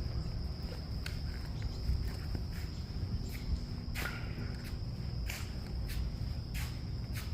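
Steady high-pitched cricket trill over a low rumble, with scattered light clicks and scuffs.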